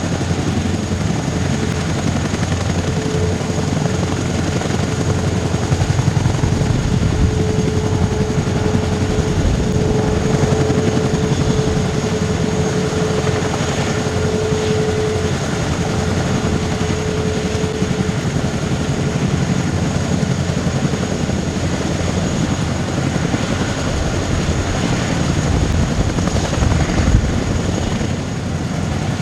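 Aircraft engines running as a steady low rumble, with a held whine-like tone for several seconds in the first half.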